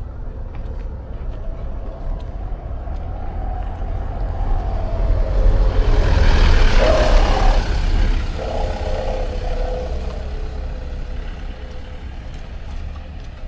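A motor vehicle drives past, its engine note and road noise building to a peak about halfway through and then fading away, over a steady low rumble.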